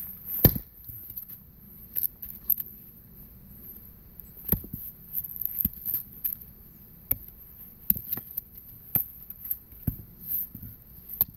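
Sharp knocks of steel tools striking firewood logs during splitting and hauling, about eight irregular blows with lighter wooden clatters in between.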